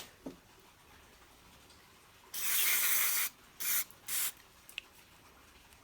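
Aerosol parts cleaner sprayed onto carburettor parts in short bursts: one hiss of about a second, then two shorter ones, cleaning out gummed-up jets.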